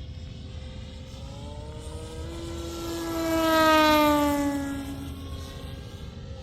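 Seagull Models Gee Bee RC model airplane making a flyby: its propeller drone grows louder to a peak about three and a half seconds in, the pitch dropping as it passes, then fades away.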